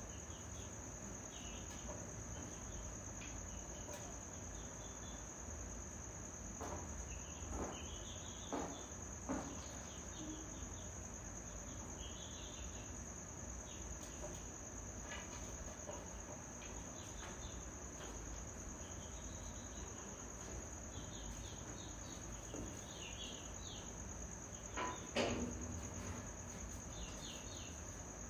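Steady high-pitched insect drone, with faint short chirps scattered throughout and a few knocks, the loudest about 25 seconds in.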